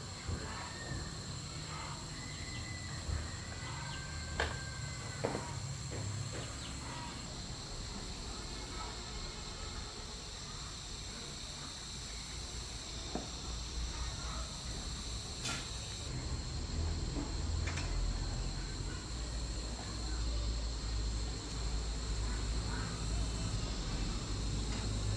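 Insects calling steadily, a continuous high shrill drone, with a few scattered sharp taps and a low rumble growing in the second half.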